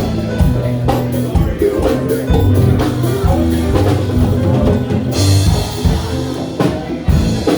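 A ragtime band playing live, with a steady beat and a moving bass line under the melody.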